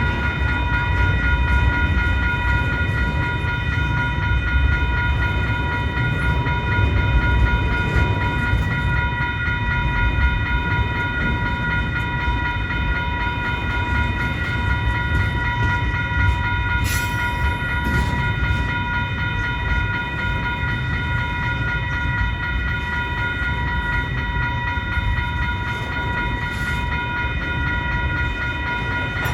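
Freight train cars rolling past with a steady low rumble, with several steady high-pitched tones over it. A sharp clank about seventeen seconds in, and a fainter one later.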